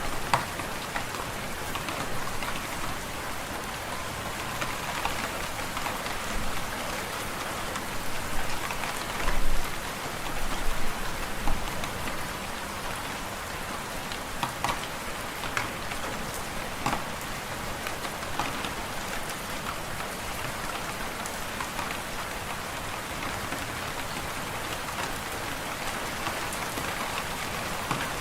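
Wood fire in a fireplace crackling: a steady hiss dotted with small pops, with a few louder pops around ten seconds in.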